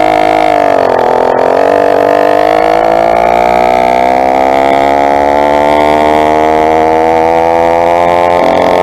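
Two-stroke motorized bicycle engine running under way: its buzzing note drops about a second in, then climbs slowly and steadily as the bike accelerates.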